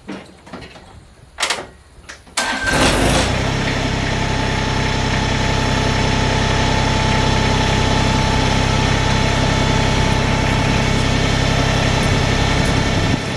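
A few clicks and knocks, then the New Holland Workmaster 25S compact tractor's diesel engine is cranked by its starter and catches within about a second, a cold start. It then idles steadily for the rest of the time.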